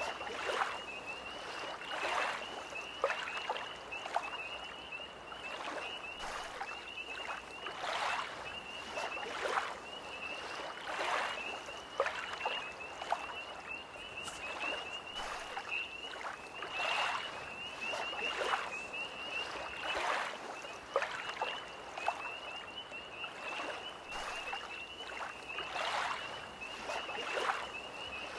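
Small lake waves lapping and splashing against the shore every second or so, under a continuous high, wavering trill of tree frogs.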